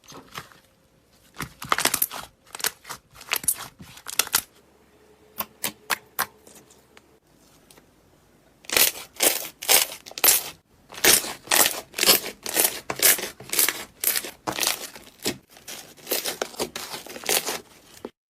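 Slime being squeezed and pressed by hand, making quick runs of short crackling bursts. They thin out to a few clicks about four seconds in, then come thick and fast from about nine seconds until they stop abruptly near the end.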